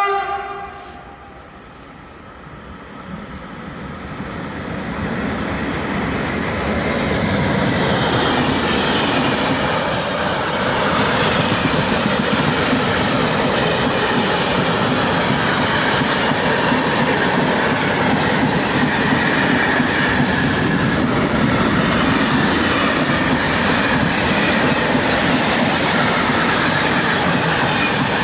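A horn note from an E191 electric locomotive cuts off just after the start. Then a freight train of covered H wagons rolls past: the rumble builds over the first several seconds and settles into a loud, steady rolling noise with wheel clatter.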